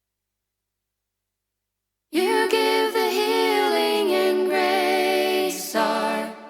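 Silence for about two seconds, then an a cappella vocal group starts singing a hymn in close harmony, with held chords.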